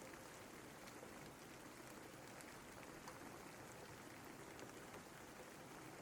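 Faint steady rainfall: an even hiss with many small ticks of scattered drops.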